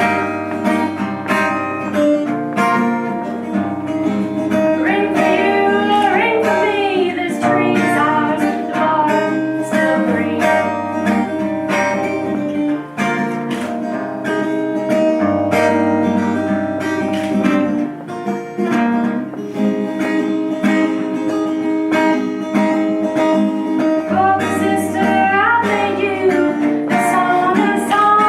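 Acoustic guitar strummed and plucked, with a woman singing over it.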